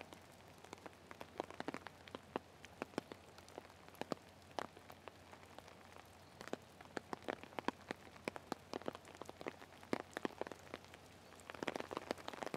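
Rain falling, with drops striking close by as scattered, irregular sharp ticks over a faint steady hiss.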